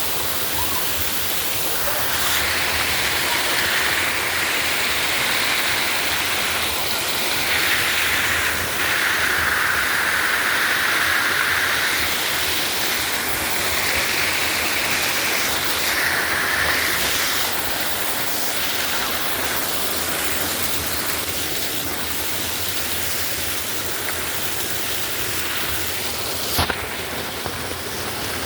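Waterfall rushing, a steady noise that swells louder in places during the first half. A single sharp click comes near the end.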